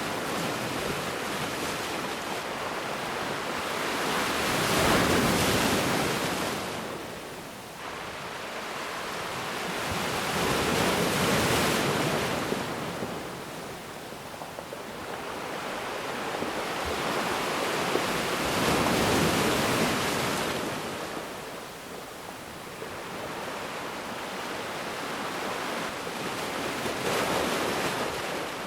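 Ocean waves breaking on a beach, a steady wash of surf that swells into a louder breaking wave about every six to eight seconds, four times.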